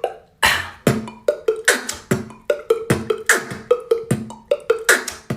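Water beatboxing: a beatboxer's mouth makes a steady beat of sharp kick and snare sounds mixed with short pitched bloops like water drops.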